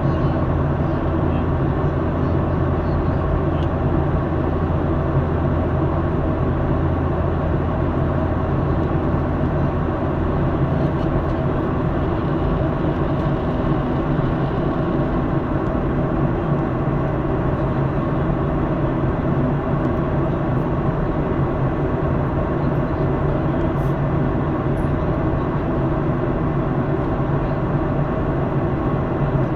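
Steady cabin noise of a jet airliner in flight: engine and airflow roar with a low, even hum.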